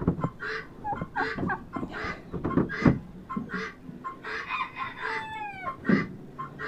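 Backyard chickens clucking, with other poultry giving short calls about twice a second and a rooster crowing once, falling in pitch, about five seconds in. A few dull knocks from handling in the coop are mixed in.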